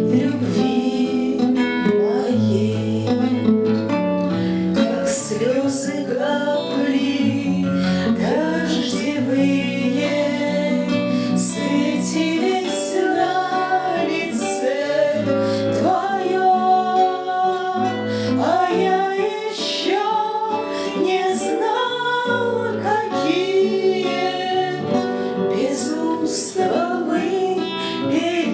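A woman singing a song with acoustic guitar accompaniment, the voice carried in long held notes with vibrato over plucked chords.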